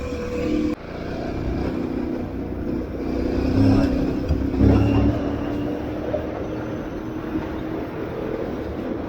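Aprilia Tuareg 660 motorcycle's parallel-twin engine running under way off road, with rushing noise under the engine note. The sound drops abruptly just under a second in, then the engine runs on, louder for a moment around the middle.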